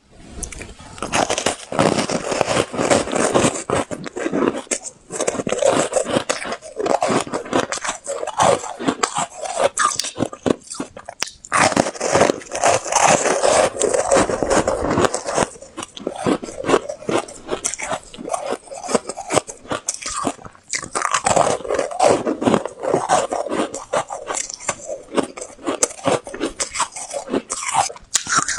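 Close-up crunching bites of refrozen honeycomb ice balls coated in matcha and green barley powder: dense crackling crunches in runs, broken by short pauses.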